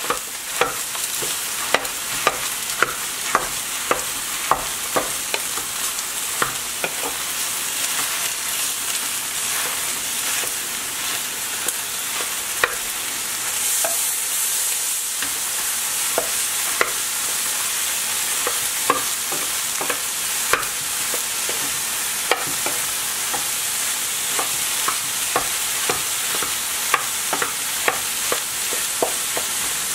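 Leftover rice and scrambled egg sizzling in a hot oiled frying pan, with a steady hiss. A wooden spatula knocks and scrapes against the pan as it breaks up the rice, giving sharp irregular taps about once or twice a second.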